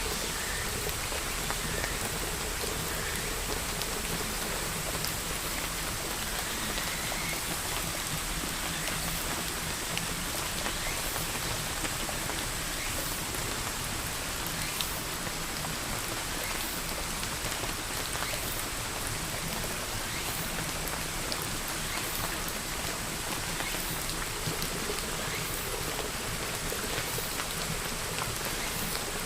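Steady rain falling, an even hiss with scattered sharp drips of individual drops striking a surface.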